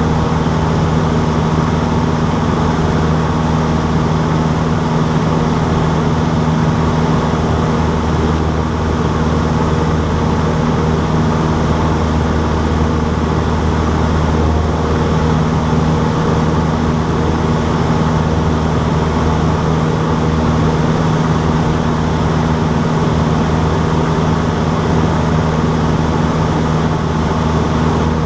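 Cessna 152's four-cylinder Lycoming O-235 engine and propeller running steadily, a constant drone with no change in pitch.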